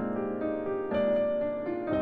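Piano music with slow, held notes, a new chord coming in about a second in and again near the end.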